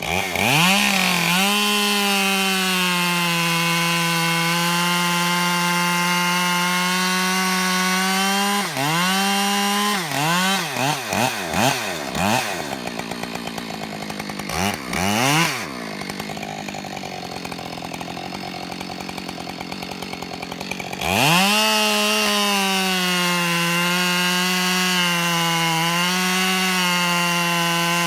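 Husqvarna 572XP chainsaw cutting through a log at full throttle, its engine note pulled down steady under load for about eight seconds. It is then blipped several times and drops to idle, and another long cut begins about three-quarters of the way through.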